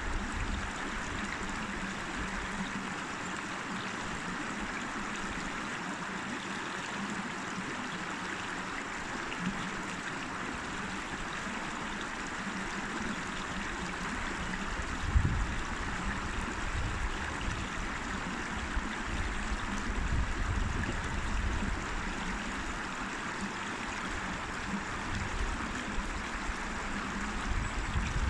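River water flowing in a steady, even rush, with a few brief low rumbles around the middle and near the end.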